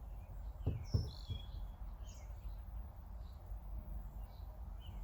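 Wild birds chirping with short, scattered calls over a steady low rumble, with a few soft low knocks about a second in.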